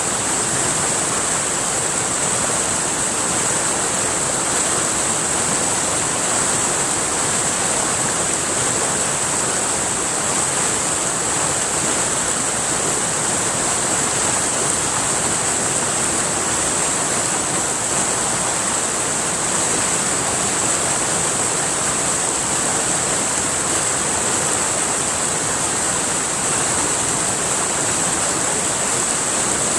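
River water rushing steadily, with a steady high-pitched hiss running above it.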